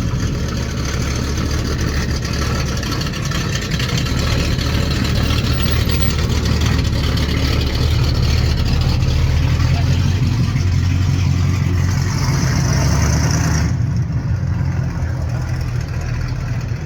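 Carbureted American V8 of a classic Chevrolet Malibu SS running steadily at idle through its exhaust.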